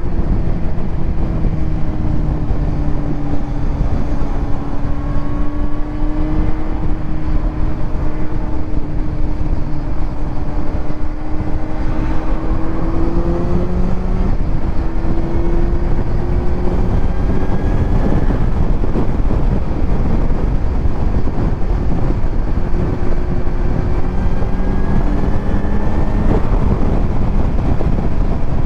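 Kawasaki Z900's inline-four engine running through a titanium Arrow exhaust while riding. The engine note slowly rises and then drops back a few times, over a steady rush of wind noise.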